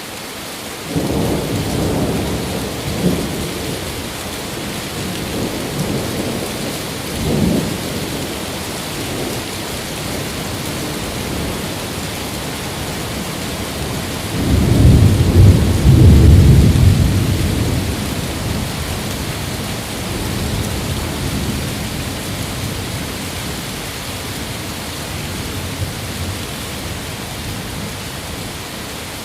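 Steady heavy rain with rolling thunder: low rumbles in the first few seconds and again around seven seconds in, then the loudest, longest roll starting about halfway through and fading away over several seconds.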